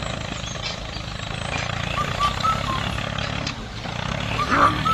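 A small motor running steadily with a low, even hum, and a few short high chirps partway through.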